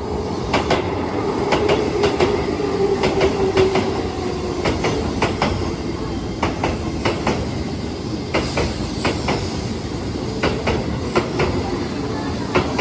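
Keihan 3000-series eight-car electric train running into the station, its wheels clicking in close pairs over rail joints above a steady rumble, with a faint whine that falls slightly in the first few seconds.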